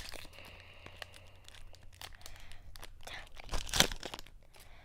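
Foil Pokémon TCG booster pack wrapper being torn open and crinkled. It starts with a sharp snap, then crackles, with the loudest tear about three and a half seconds in.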